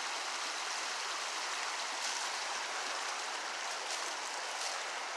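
Steady rushing outdoor background noise, with a few faint rustles.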